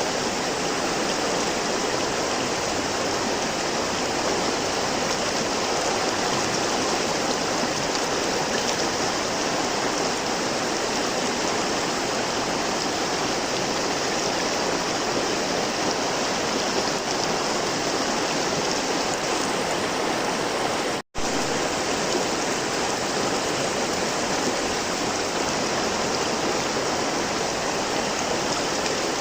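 River water flowing steadily, an even rushing noise, cut off to silence for a split second about two-thirds of the way through.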